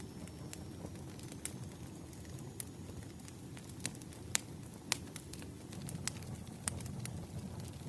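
Wood campfire burning: a low steady rumble of flames with scattered sharp crackles and pops, a few of them loud in the second half.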